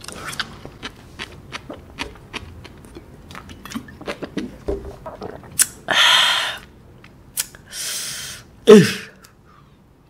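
Close-miked chewing of latok sea grapes, many soft wet pops and clicks for about five seconds. Then come two loud breathy exhalations, about six and eight seconds in, and a short falling vocal grunt near the end, the loudest sound.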